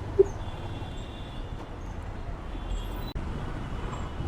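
Motorcycle riding in highway traffic: a steady low engine and road rumble with wind on the microphone, and a brief beep about a fifth of a second in.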